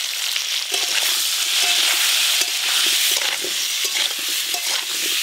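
Potato chunks sizzling steadily in hot mustard oil in a metal kadai. From about a second in, a metal spatula scrapes and clicks against the pan as the potatoes are stirred.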